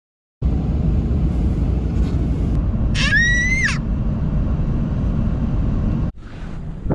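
Wind buffeting the microphone as a steady low rumble, with a brief high-pitched squeal that rises, holds and falls about three seconds in. The rumble cuts off suddenly near the end, and quieter rumble follows.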